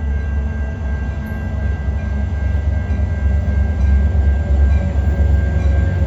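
Metra MP36PH-3C diesel-electric locomotive running, its 16-cylinder EMD 645 prime mover giving a heavy low rumble under a steady high whine, growing a little louder over the last few seconds.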